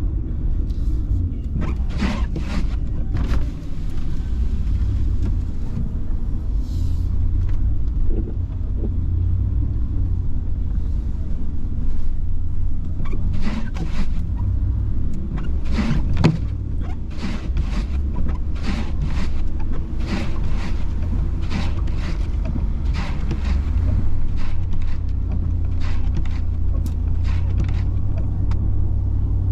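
Car driving along, a steady low road and engine rumble throughout, with frequent short sharp clicks and knocks at irregular intervals, most of them in the second half.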